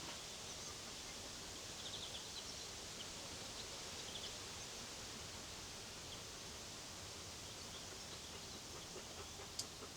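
Steady faint outdoor ambience with a few faint bird chirps about two and four seconds in, and a single sharp click near the end.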